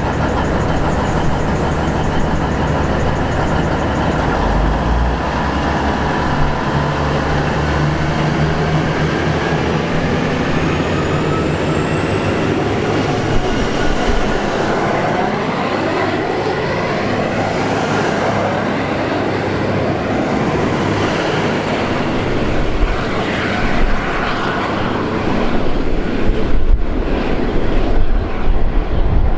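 V/Line diesel passenger train running at the station with a steady low engine drone. About a third of the way in, a high, thin whine rises and then holds. The sound grows louder near the end.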